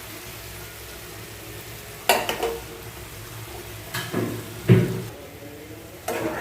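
Yogurt-marinated chicken sizzling steadily in hot oil in a pan as it is stir-fried, with a utensil scraping and knocking against the pan about four times, loudest just before five seconds in.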